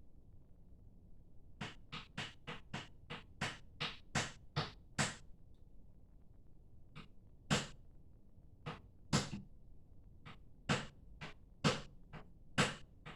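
Sharp knocks tapped out like drumming on a hard surface: a quick run of about a dozen strikes at roughly three a second, then slower, uneven and louder ones.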